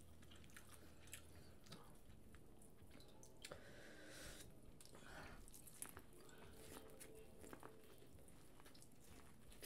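Faint chewing and small wet clicks of eating boiled corn on the cob.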